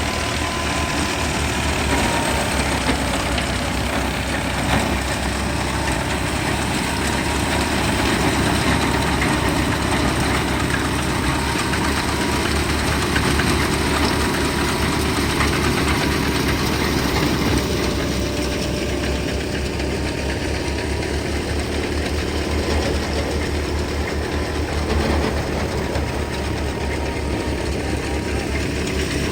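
Tractor-driven wheat thresher running steadily: a constant engine drone with the dense mechanical noise of the threshing machinery.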